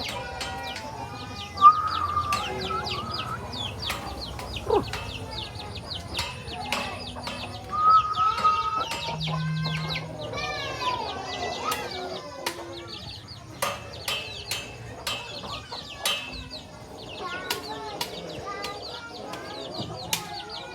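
Chickens clucking and calling, with many short high chirps and some wing flapping.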